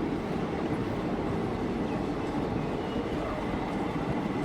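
Indian Railways local passenger coach running along the track, heard from inside: a steady rumble and rattle of the carriage.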